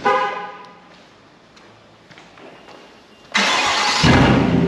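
Chevrolet Silverado 1500's engine cranking and firing up about three seconds in, then running loud and deep through a straight-piped exhaust with the muffler cut out. A brief tone sounds just before, at the very beginning.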